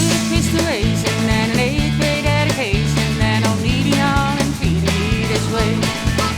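Country-rock band playing an instrumental break: a lead guitar line with bent notes over a steady bass and drum beat.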